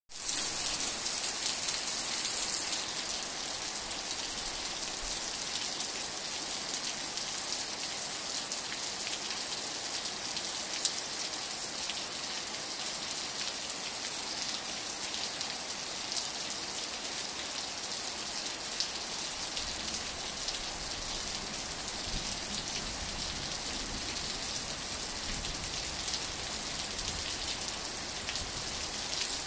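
Steady rain falling on grass and leaves: an even hiss with scattered sharp ticks of single drops.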